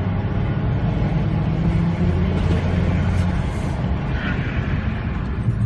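Car engine running with road noise, heard from inside a moving car, a steady low drone that gets a little stronger about two seconds in.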